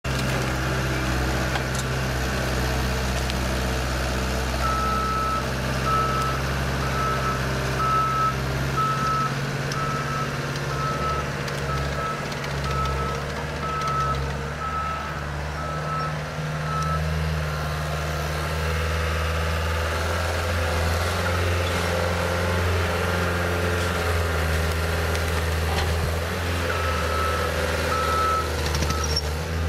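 Skid steer's engine running steadily as it works a large log with a root grapple, its pitch shifting a couple of times. Over the engine, a backup alarm beeps about once a second while the machine reverses, from about five seconds in to about seventeen, and again near the end.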